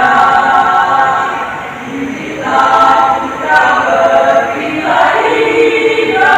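A women's choir singing, with long held notes; the singing eases off briefly about two seconds in and then comes back in full.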